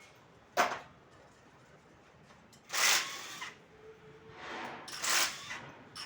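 A sharp knock about half a second in, then scraping and clattering around three and five seconds, from hand tools and engine parts being handled.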